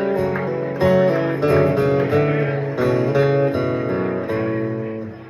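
Acoustic guitar strumming sustained chords, re-struck about once a second, with a short dip in loudness near the end.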